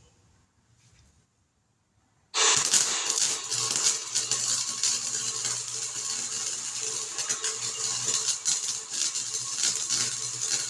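Welding arc crackling steadily as a bead is run on the sheet-metal patch panels of a 1950 Chevy truck bed. It starts suddenly a couple of seconds in, runs about eight seconds over a faint machine hum and cuts off abruptly.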